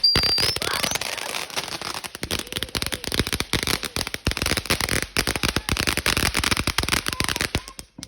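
A firework going off with a long, dense run of rapid crackling pops that stops abruptly near the end, after a brief rising whistle at the start.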